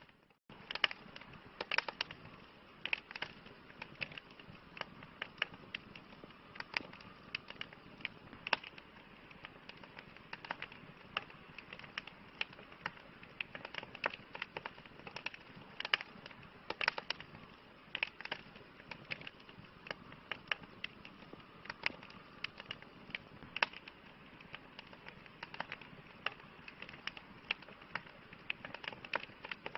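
Wood campfire crackling: irregular sharp pops and snaps, several a second, over a steady soft hiss of burning, with a brief dropout just after the start.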